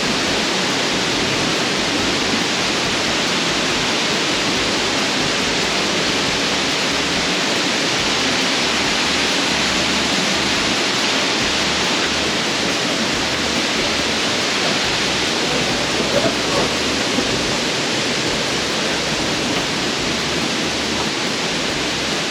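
Waterfall pouring into a cave pool: a steady, unbroken rush of falling water.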